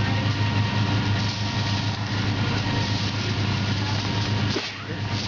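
Van engine running steadily at low revs while the vehicle backs up slowly, a constant low hum that dips briefly near the end.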